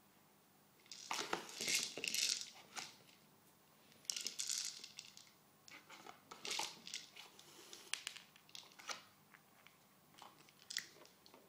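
Crinkly toy material rustling and crackling in irregular bursts as a cat plays with it. The bursts are loudest in the first few seconds, then come as smaller rustles and ticks.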